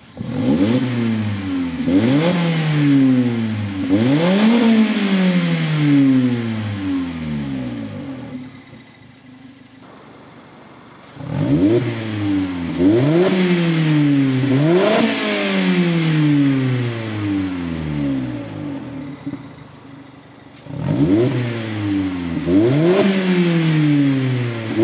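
ND Mazda Miata's four-cylinder engine free-revving through an aftermarket Integral Kobe N-Zero Spec exhaust: three sets of about three quick throttle blips, each rising sharply and falling back more slowly, with the engine settling to idle between the sets.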